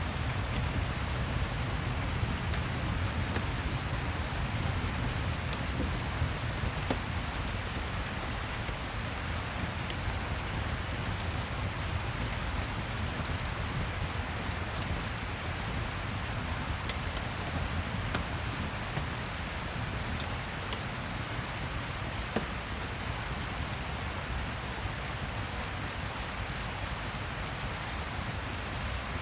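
Steady rain ambience: a continuous even hiss of falling rain with a low rumble underneath, with scattered faint crackles from a fireplace.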